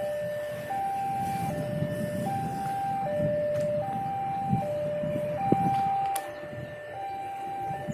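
Railway level-crossing warning alarm sounding a steady two-tone high-low signal, each tone lasting about three-quarters of a second, over the low rumble of road traffic; it signals that a train is approaching the crossing.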